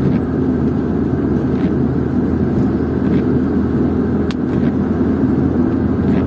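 Steady drone of a car driving on a wet highway in the rain, heard from inside the cabin: an even engine hum under road and tyre noise, with a few faint brief clicks.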